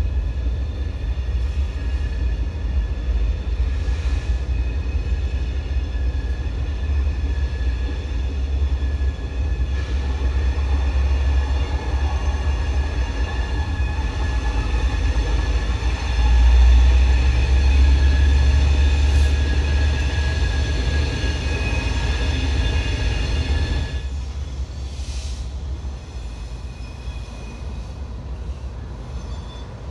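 Diesel freight train running past with a deep, heavy rumble and a steady high whine over it. It is loudest about two-thirds of the way through. The whine cuts off about 24 seconds in and the rumble fades away.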